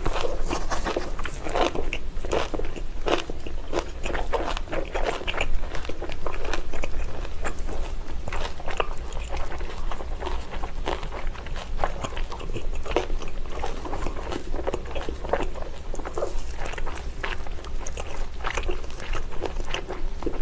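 Biting and chewing a whole jokbal, Korean braised pig's trotter, picked up close on the microphone: a dense run of short clicks and smacks, several a second.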